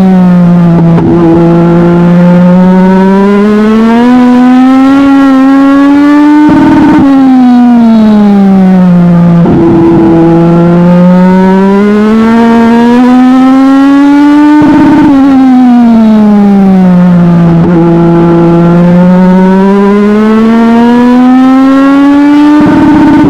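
Legend race car's Yamaha motorcycle-derived engine running flat out, heard steadily and loud. The pitch climbs for several seconds along each straight, then breaks off sharply and sags as the driver lifts for the turn, before climbing again. This happens about every eight seconds, with the breaks coming about a third of the way in, half way, and right at the end.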